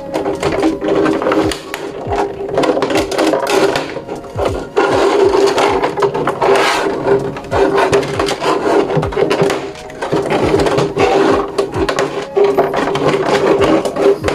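Packaging being handled and opened: rapid clicks, scrapes and rubbing of cardboard and plastic, with a steady tone underneath.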